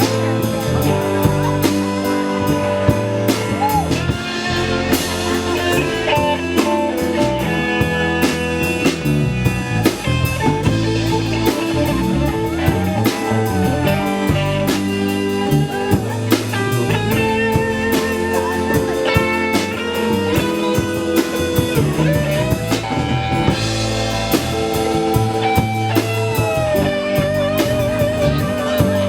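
Live rock band playing an instrumental passage with no vocals: a drum kit keeps a steady beat under bass and electric guitar. A lead guitar plays bent notes, holding a long wavering note near the end.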